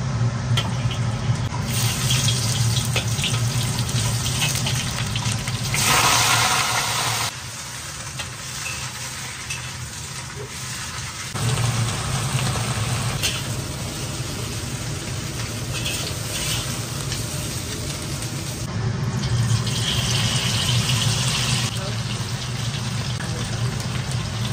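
Stir-frying in a hot wok: oil sizzling and hissing as ingredients are tossed and turned, over a steady low drone. The sizzle surges louder about six seconds in.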